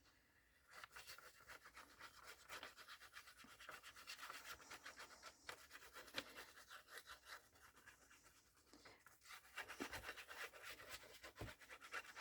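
Faint, rapid scratching and rubbing on paper while glue is applied to a paper piece, starting about a second in.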